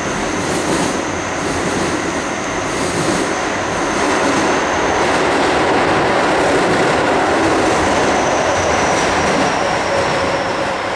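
Keio 9000 series electric train running through a subway tunnel, heard from inside the car: a steady loud rumble of wheels on rail as it approaches Ichigaya station. A faint high whine slides down in pitch over the last few seconds.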